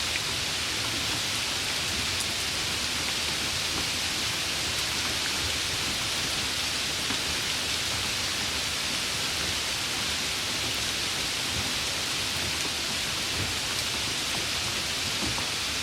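Heavy rain falling steadily: an even, unbroken hiss with no gusts, drips or thunderclaps standing out.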